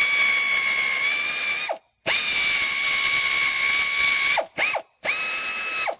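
Power drill spinning a Time-Sert drill bit down into a stripped head bolt hole in a Honda 3.5 L engine block. It runs in trigger bursts with a steady whine over harsh cutting noise: about two seconds, a short stop, over two seconds more, a brief blip, then about a second.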